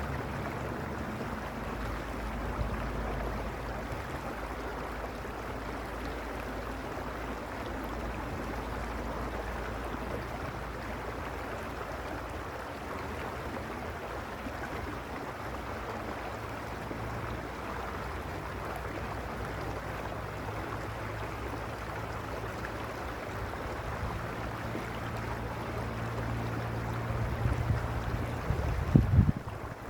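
Mountain stream rushing steadily over stones. Near the end a low rumble swells, with a few louder low thumps.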